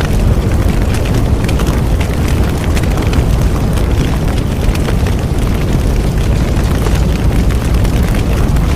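Bonfire burning with a steady low roar and dense, rapid crackling and popping.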